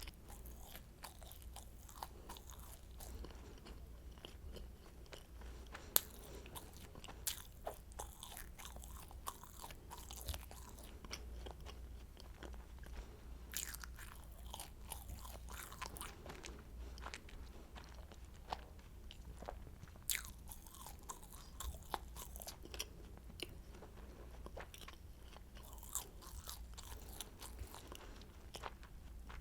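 Close-miked eating of flaky croissant: continuous chewing with crackling and crunching of the crisp pastry, and a few louder, sharper crunches from fresh bites.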